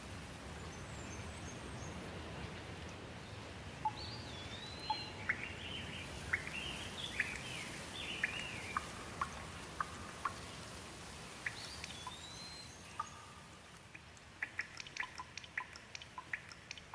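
Steady light rain hiss with a bird calling over it: whistled, swooping calls about four and twelve seconds in, with a run of chirps between. Near the end the rain eases and a quick run of sharp ticks comes in.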